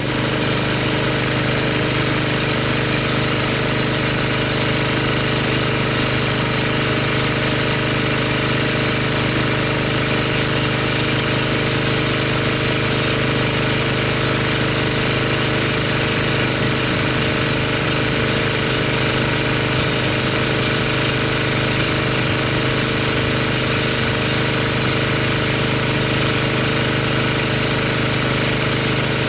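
Pressure washer running steadily as a car is rinsed: a constant motor and pump hum under the hiss of the water spray.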